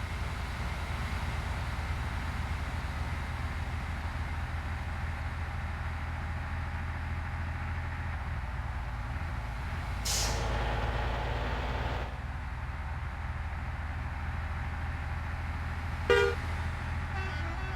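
Truck engine running with a steady low drone. About ten seconds in, a hiss lasts about two seconds. Near the end comes a short, loud horn toot.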